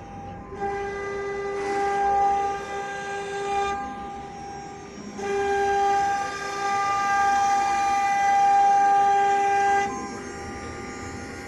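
Minimo 1318G CNC milling-engraving router running, a steady high-pitched whine that swells twice: from about half a second in to near four seconds, and again from about five to ten seconds.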